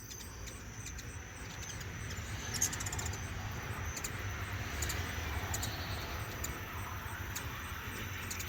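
Hummingbirds giving many short, high chip calls and twitters at irregular intervals, over a steady low rumble, with a constant high insect trill behind.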